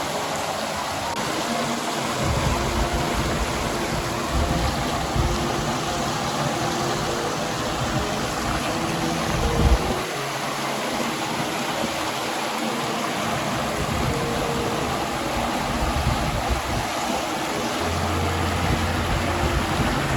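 River water flowing and rushing steadily, a full even hiss with a low rumble underneath that swells and fades.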